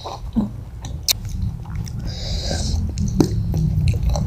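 Close-miked chewing and biting of fried chicken, with scattered small wet clicks and a brief hiss about two seconds in.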